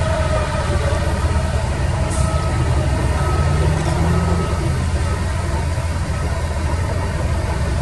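Heavy diesel machinery engine running steadily, its sound mostly deep and low.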